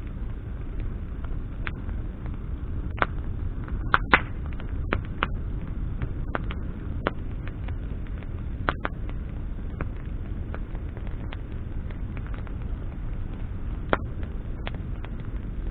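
Wood bonfire crackling: burning branches give irregular sharp pops over a steady low rumble, with a loud burst of pops about four seconds in and another loud pop near the end.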